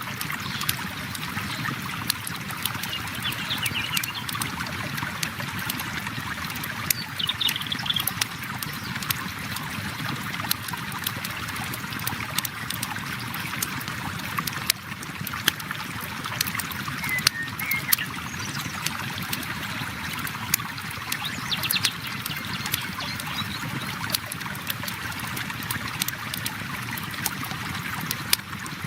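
Flowing river water running steadily, with a wood campfire crackling and popping in sharp, irregular snaps over it.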